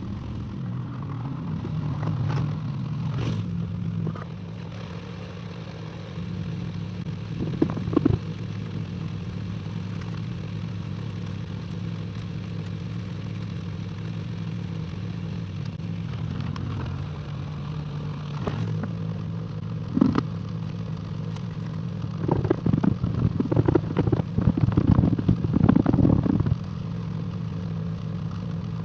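Excavator engine running steadily, with scattered metallic clanks and scraping from the working machine; the clatter comes thick and loud about two-thirds of the way through.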